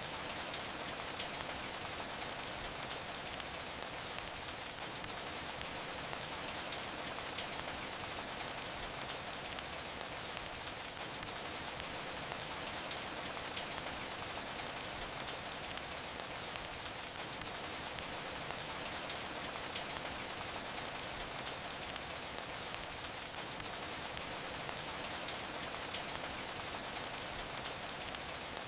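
Steady rainfall hiss with sharp crackles and pops from a wood fire, a few louder pops about every six seconds.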